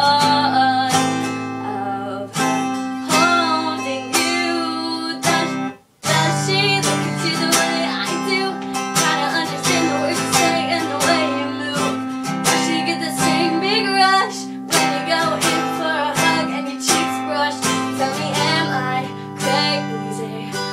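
Acoustic guitar strummed in steady chords, with a young woman's voice singing over it at times. The playing stops abruptly for a moment about six seconds in, then picks up again.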